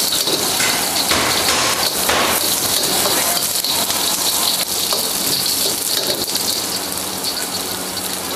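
Thin-sliced beef sizzling in oil in a hot wok, stirred with a metal ladle that scrapes and taps the pan now and then. The sizzle is steady and eases a little near the end.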